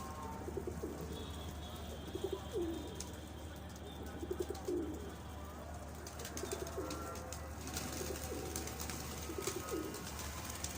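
Domestic pigeons cooing, a short cooing phrase every couple of seconds, over a steady low hum.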